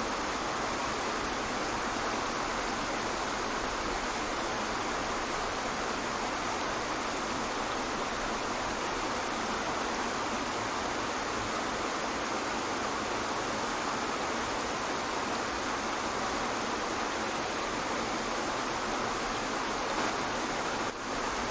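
Waterfall rushing: a steady, even roar of falling water, unchanging except for a brief dip in level near the end.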